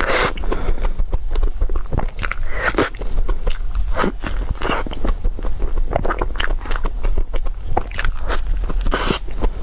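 Close-miked eating: irregular crunchy bites and chewing of crisp food.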